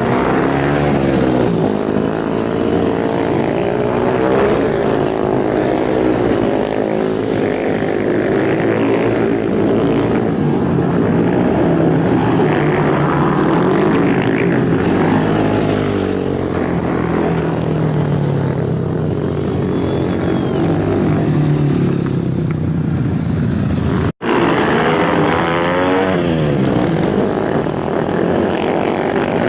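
Racing motorcycle engines at high revs, several engine notes overlapping and repeatedly rising and falling in pitch. The sound cuts out for an instant about 24 seconds in, then resumes.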